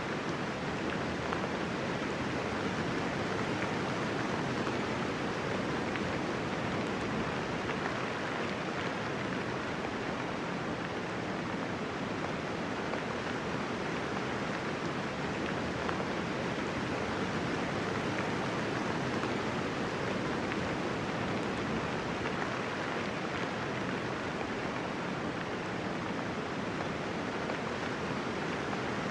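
Steady rainfall: a dense, even hiss of raindrops with no thunder and no single drops standing out.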